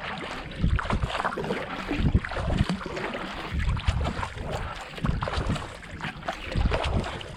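Paddle blades of a racing kayak pulling through the water in a steady rhythm at about 70–80 strokes a minute, each stroke a low splashing surge. Wind buffets the microphone throughout.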